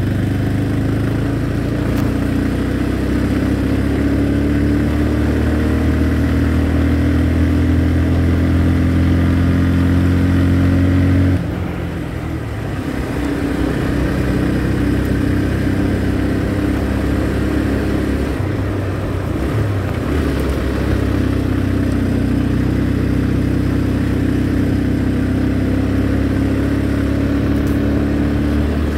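Motorcycle engine running while riding, its note holding steady and climbing slightly. About eleven seconds in the note drops abruptly and then builds back up, with a second shorter dip later on.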